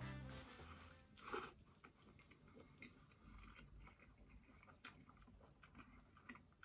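Faint close-up chewing of a crumpet sandwich filled with bacon, sausage and fried egg, with soft wet mouth clicks scattered throughout and one louder mouth sound about a second in. Background music fades out at the very start.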